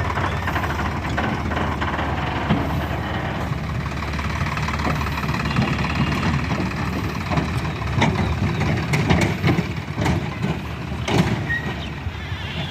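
Diesel tractor engine running steadily, with several sharp knocks in the second half.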